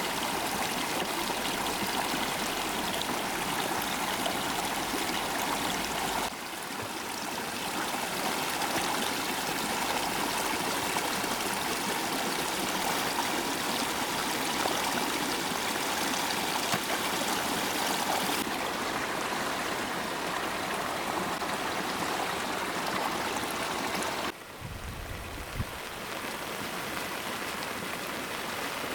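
Stream water rushing steadily, with an abrupt change in the sound about six seconds in and again near the end, as the scene shifts.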